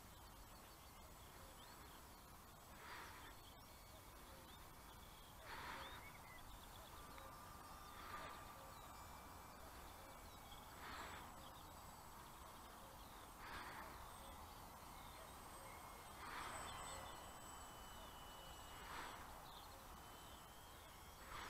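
Near silence outdoors, broken by a bird's faint harsh call repeating about every two and a half seconds, with faint chirping and a thin steady high-pitched whine.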